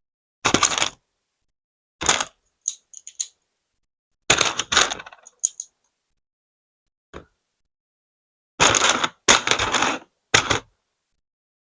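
Plastic LEGO pieces clattering in a series of short bursts, as toy LEGO cars are crashed and knocked about. The loudest clatters come about half a second in and in a quick run near the end.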